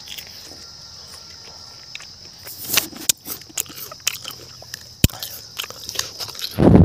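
Crisp bites and chewing of raw elephant-apple slices, a run of crunchy clicks, over a steady high insect drone. A loud low thump comes near the end.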